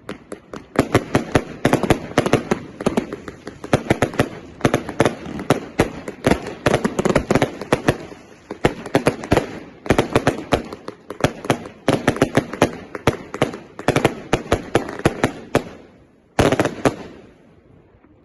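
A 200-shot 'Turbo' firework cake firing, with sharp bangs several a second coming in waves and short lulls between them. A last cluster of shots comes about 16 seconds in, then the sound dies away.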